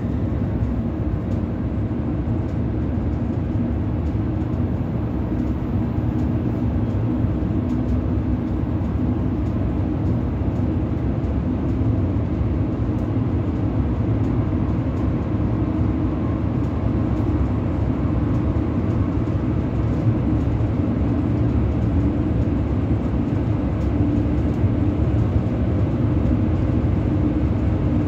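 Steady running noise of a Bombardier Twindexx Swiss Express double-decker electric train heard in the driver's cab: an even low rumble of the train on the rails with a faint steady hum.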